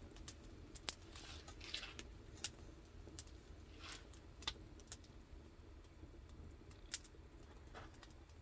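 Burning firewood crackling, with scattered sharp pops, the loudest about seven seconds in. A soft hiss swells now and then: moisture steaming out of the wood as it dries.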